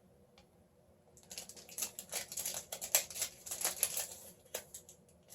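Crinkly plastic chocolate-bar wrappers being handled: a quick, irregular crackling that starts about a second in and stops shortly before the end.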